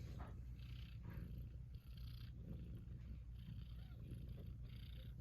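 Persian cat purring steadily, with a soft higher hiss that swells and fades about once a second.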